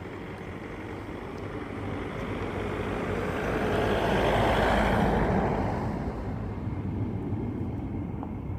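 A vehicle passing by: a broad rushing noise that swells to a peak about halfway through and then fades away.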